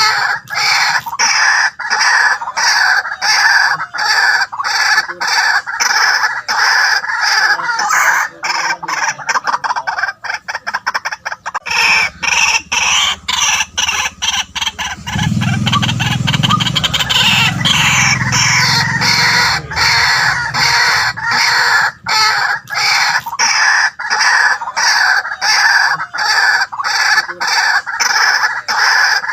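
White-breasted waterhen calling loudly and without pause, a run of repeated harsh 'kwak' notes about twice a second, speeding into a quicker rattle about a third of the way through.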